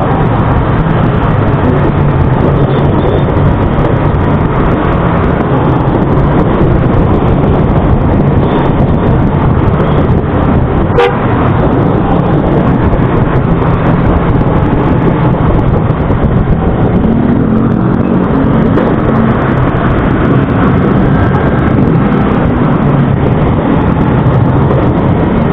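Motor vehicle engine and road noise while driving, loud and steady, with one sharp click about eleven seconds in.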